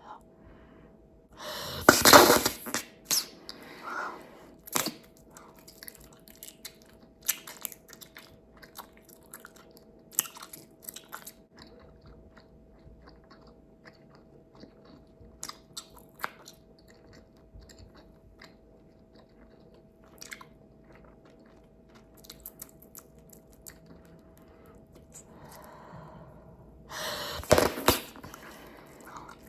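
Bubblegum being chewed with wet smacks and snapping clicks throughout. Two louder bursts, about two seconds in and near the end, come as a bubble is popped and sucked back in.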